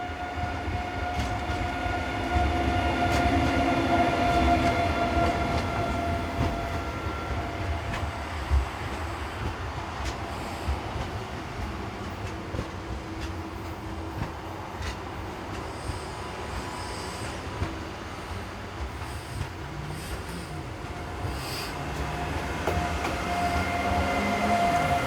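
A train running on the line, a steady high whine over low rumble and wheel clicks. It is loudest a few seconds in and dies down through the middle, and the whine builds again near the end.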